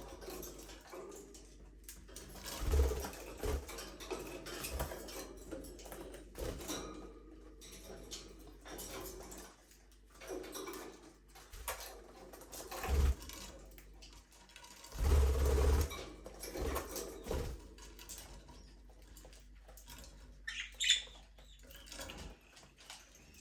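Budgerigars moving about in an aviary: scattered taps, scratches and wing flutters, with a few heavier thumps. A short burst of high chirping comes near the end.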